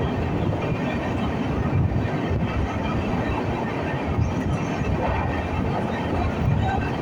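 Passenger train running, a steady rumble of wheels on the rails heard from on board.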